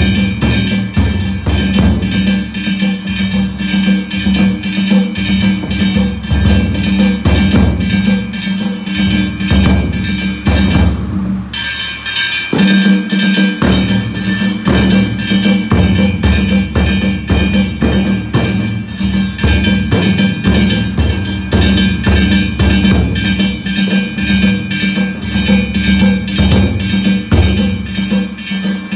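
Danjiri festival narimono ensemble playing: taiko drums beaten in a fast, driving rhythm under continuously ringing metal kane gongs. The ringing and drumming break off briefly about eleven seconds in, then start again.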